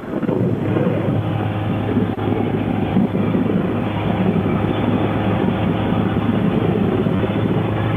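Motorcycle engine running steadily while riding, a constant low drone mixed with wind and road noise on the microphone.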